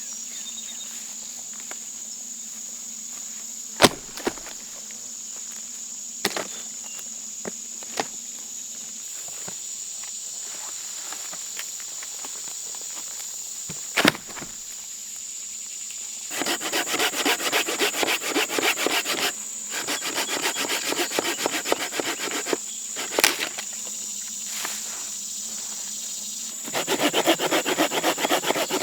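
Crickets or other insects chirring steadily, with a few sharp knocks in the first half. About halfway through, a hand saw starts cutting wood in quick back-and-forth strokes, pauses, and starts again near the end.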